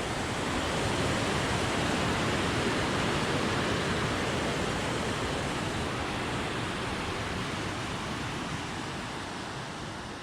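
Smith River in flood running high and fast: a steady roar of rushing water, fading slowly toward the end.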